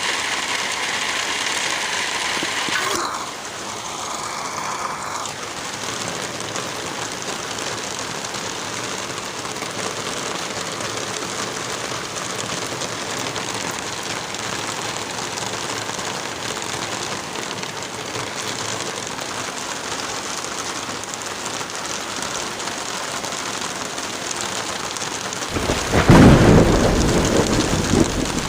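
Steady hiss of rain and wind in a forest. Near the end comes a loud, low rumble lasting two to three seconds.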